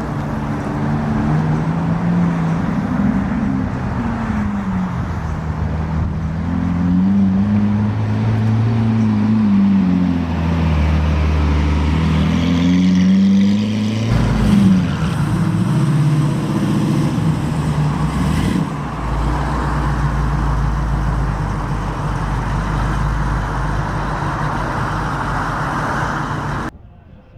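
Car engines running at close range, their pitch rising and falling several times as they rev and pull away, over a low rumble. The sound cuts off abruptly near the end.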